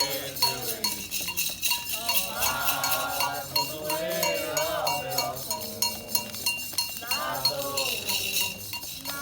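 Candomblé ceremonial music: a metal bell, typically the agogô, struck in a steady quick rhythm, about three or four strokes a second, with other percussion. Voices sing a chant over it in two phrases.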